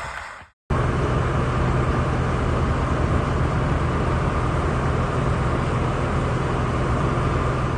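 Steady motor vehicle and road noise, with a low, even engine hum, starting abruptly after a short gap.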